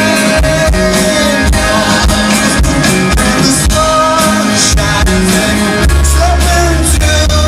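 Rock band playing live: electric guitars, bass and a steady drum beat under a sung lead vocal holding long notes.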